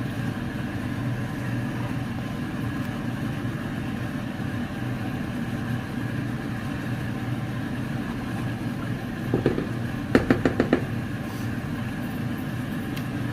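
Steady low kitchen hum, with a quick run of metal clinks about ten seconds in, a spoon knocking against the cooking pot while the masala is stirred.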